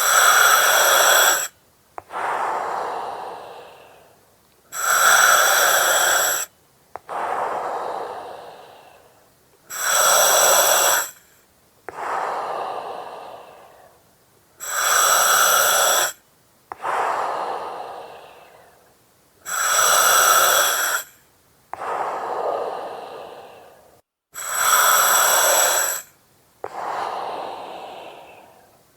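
Slow, steady breathing through an oxygen mask with its regulator hissing, about one breath every five seconds, six in all. Each breath is a loud hiss of about a second and a half with a whistling edge, followed by a longer breath that fades away.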